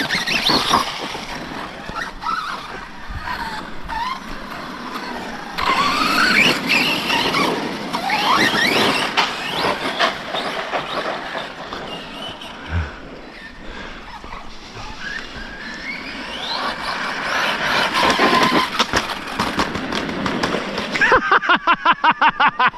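Brushless electric motors and gear drivetrains of RC stunt trucks whining, the pitch rising and falling again and again as the throttle is applied and let off. Near the end comes a fast, even stuttering pulse.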